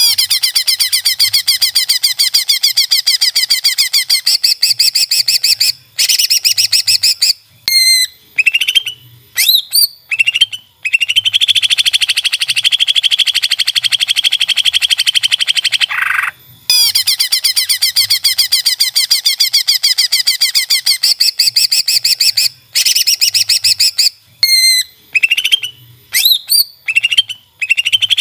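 Cucak ijo (greater green leafbird) singing in long, very fast chattering trills, broken by brief gaps with a few quick rising whistled notes. The same song phrase comes round again about halfway through, as a looped song-training recording.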